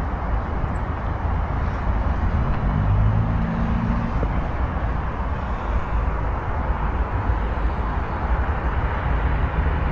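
Steady vehicle rumble mixed with wind noise, with a brief engine tone standing out about three seconds in.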